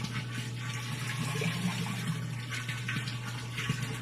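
Tap water running steadily at a strong flow, boosted by a pressure booster pump, with a steady low hum underneath.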